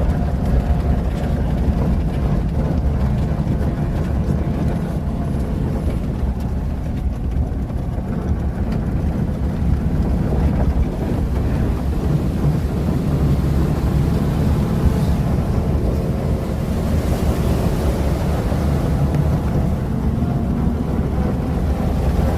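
1926 Chrysler Royal Coupe's engine running steadily as the car is driven, with wind rumbling on the microphone.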